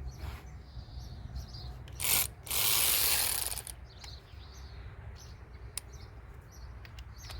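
Ratchet wrench undoing the 10mm bolts of a lawnmower cover: a short burst of ratcheting about two seconds in, then a longer run of about a second, with scattered single clicks of tool and metal.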